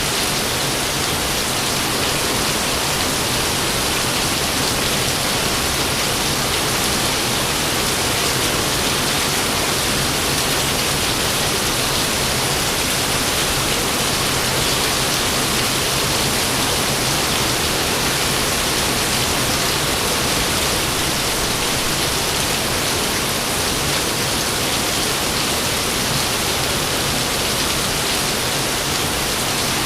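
Steady rain falling, an even hiss with no thunderclaps.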